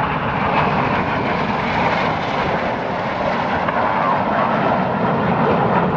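Formation of BAE Hawk T1 jet trainers flying past, with steady jet engine noise.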